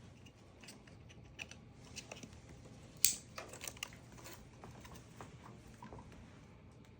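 Scattered faint clicks and taps over a low steady hum, with one sharper click about three seconds in.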